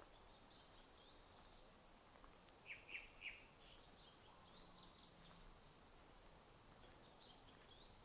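Faint forest birdsong: small groups of high twittering chirps come and go, with three louder, sharp downward calls in quick succession about three seconds in, over a soft steady background hiss.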